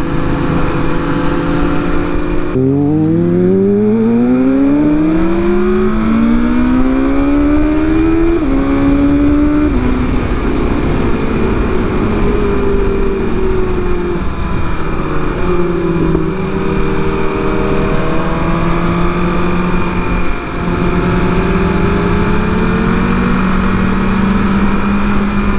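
Sport motorcycle engine pulling hard through the gears from about three seconds in, its pitch climbing and dropping back at each upshift three times, then cruising at a near-steady pitch, over steady wind rush.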